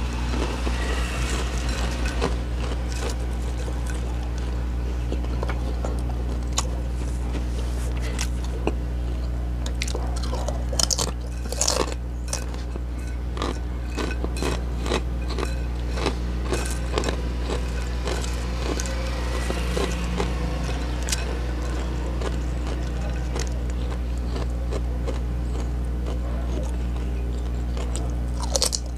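Close-miked chewing and crunching of crispy chips, with scattered crackles from fingers picking chips off a ceramic plate. The loudest crunches come about eleven to twelve seconds in, over a steady low hum.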